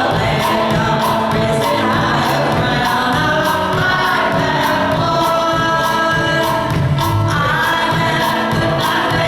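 Congregation singing a gospel hymn with instrumental accompaniment and a steady beat.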